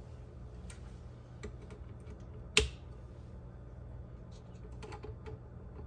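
Scattered light plastic clicks and taps from handling the KitchenAid Spiralizer Plus attachment while fitting the peeler blade and mounting a potato, with one sharper click about two and a half seconds in.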